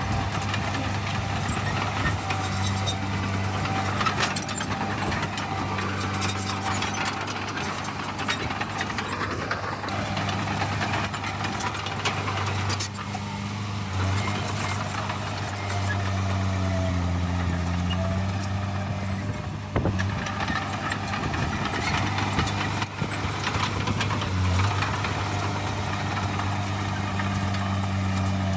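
Heavy diesel earthmoving machinery running steadily, a low drone with scattered metallic clanks and rattles, and a brief squeal now and then.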